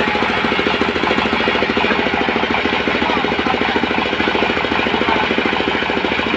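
Sawmill's engine running steadily with a fast, even firing beat.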